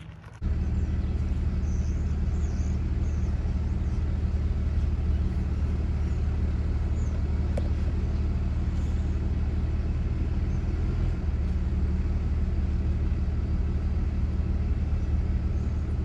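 A car driving at a steady speed: a steady low engine drone with road noise, starting abruptly about half a second in.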